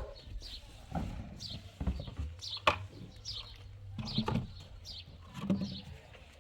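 Birds chirping in short, repeated falling calls over a low steady hum, with a few sharp clicks, one loud one near the middle.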